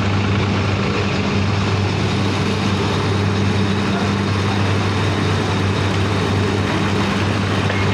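Heavy machinery running steadily: a constant low hum with a broad mechanical rushing noise over it.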